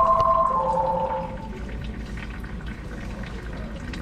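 A short melody of steady tones stepping between a few pitches for about the first second and a half. After it, engine oil trickles thinly from the drain into a catch bucket: only a small flow, because the engine was very low on oil.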